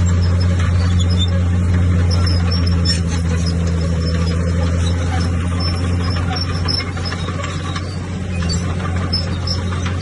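Bulldozer's diesel engine running steadily with a deep, even drone, under a continuous clattering, grinding noise of the machine at work.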